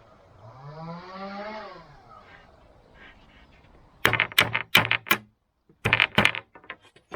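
Work on an old wooden frame: a quick run of five sharp, loud strokes about four seconds in, then two more a second later. Before them comes a short pitched vocal sound that rises and falls.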